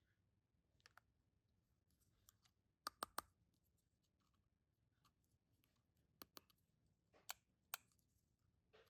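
Sparse, sharp clicks and taps of small plastic toy pieces being handled against a quiet background. Three come in quick succession about three seconds in, and a few more are spread through the rest.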